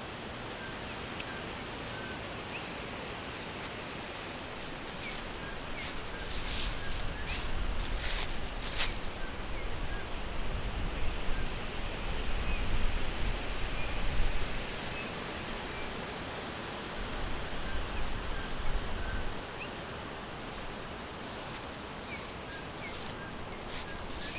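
Forest ambience: a steady rustle of wind through leaves with faint, short bird chirps scattered throughout. The rustle swells with a low rumble between about six and fifteen seconds in, and again briefly around eighteen seconds.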